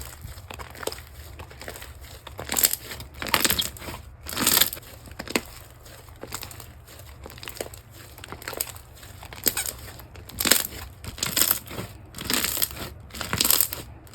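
Slime being squeezed, pressed and stretched by hand, making a series of irregular crackly, squishy handling noises. They come in two busier clusters, a few seconds in and again through the second half.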